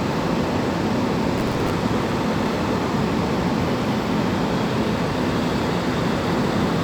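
Steady, even rumble of vehicle noise with no distinct events.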